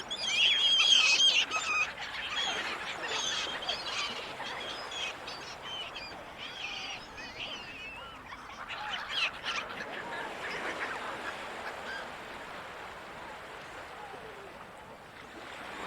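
Seagulls calling, many cries overlapping, loudest in the first two seconds and thickening again around nine to eleven seconds in, over a steady wash of sea noise.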